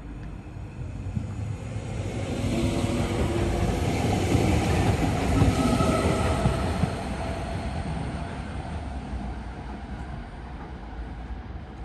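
Electric train running past on the station tracks, its noise building to a peak a few seconds in and then dying away, with a few steady tones over the rumble.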